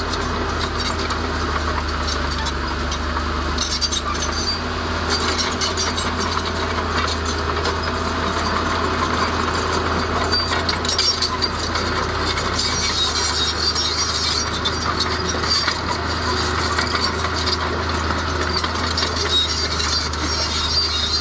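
Heavy diesel bulldozer running steadily, its engine a constant low hum under a continual rattle and clinking of tracks and stone.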